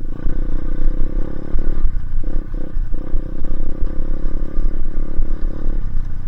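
Dirt bike engine running under throttle while riding through snow, its note steady but dipping and picking back up a few times about two seconds in as the throttle is eased and reopened.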